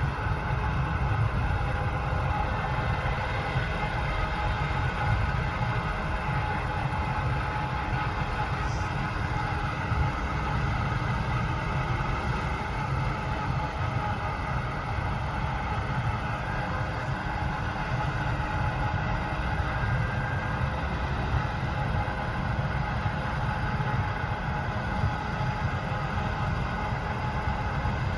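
Heavy harvest machinery running steadily: a deep diesel rumble with a constant mechanical hum and whine layered above it, unchanging in pace.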